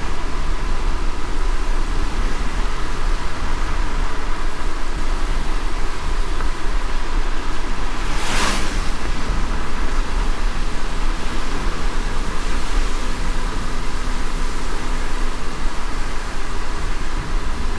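Car driving in light rain: a steady road rumble and tyre hiss, with one brief swish about eight and a half seconds in.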